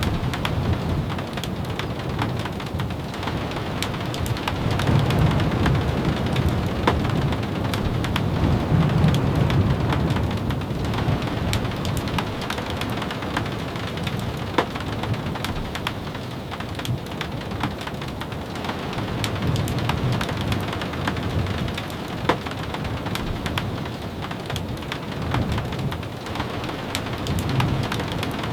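Steady rain falling on a cabin, an even hiss scattered with many small sharp ticks. A low rumble swells and fades a few times underneath.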